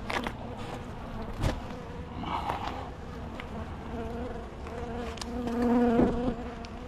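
Honeybees buzzing around an open hive, one bee humming loudly close by for a couple of seconds past the middle, with two sharp knocks in the first half.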